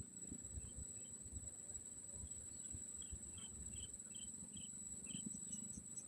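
Insects making a steady high drone, with a run of short chirps about three a second in the middle and a few higher chirps near the end, over a low rumble.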